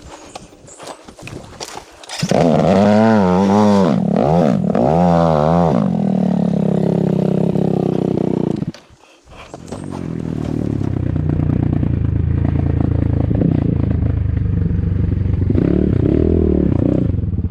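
Dirt bike engine starting about two seconds in and revved in several quick blips, then idling. It cuts out briefly near the middle, comes back and runs at a steady idle, with one more short rev near the end.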